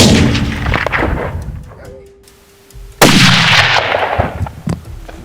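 Two gunshots about three seconds apart, each followed by a long rolling echo that fades over a second or two.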